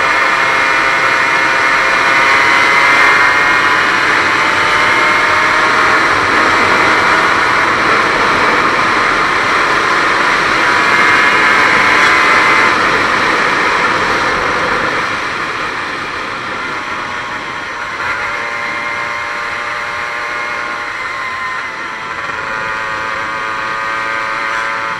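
1998 Aprilia RS 125's single-cylinder two-stroke engine running hard on the move, its high engine note rising and falling as the revs change, over a steady rush of noise. The engine note is loud for the first half and drops lower and quieter from about halfway through.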